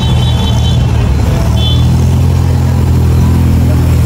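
Vintage sports car engine running at low revs as the car rolls slowly past, a steady low note throughout. Two brief high-pitched tones sound in the first two seconds.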